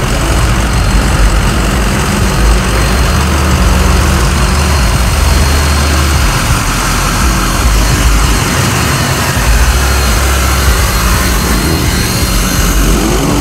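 A vehicle engine idling steadily, a low even hum that does not change.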